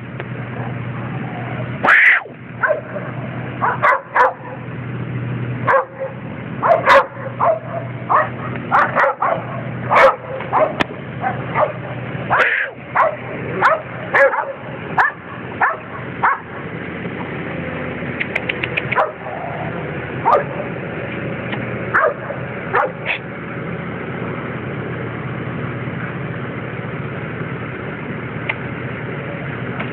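Dogs barking and yipping at each other in irregular runs of short barks, dense at first and thinning out after about 17 seconds, over a steady low hum.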